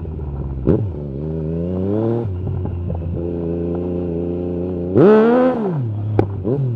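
Yamaha MT-09 SP's three-cylinder engine through an Akrapovic carbon Racing-Line exhaust with the dB killer removed: pulling up through the revs, dropping in pitch at a gear change a little after two seconds, then running steadily. About five seconds in a sharp throttle blip rises and falls, followed by a few short pops and crackles from the exhaust near the end.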